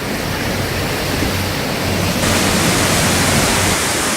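Hurricane wind and heavy rain: a loud, steady rush of noise that turns brighter and hissier about two seconds in.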